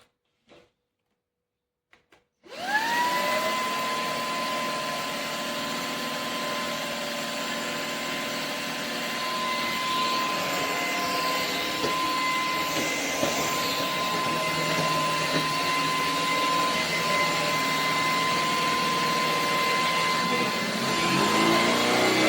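Shark PowerPro IZ380EU cordless stick vacuum switched on after a few light clicks, its motor spinning up to a steady high whine over the rush of airflow. Near the end a lower rising tone joins in and it gets louder.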